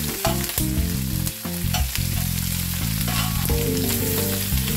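Chicken pieces sizzling in a little oil on a hot flat tawa, with a slotted metal spatula clicking and scraping against the pan a few times as the pieces are turned. The steamed chicken is already cooked and is being browned.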